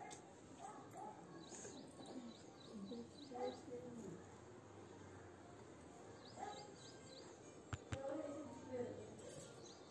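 Small birds chirping in runs of short, high, falling chirps, with faint voices in the background and two sharp clicks about eight seconds in.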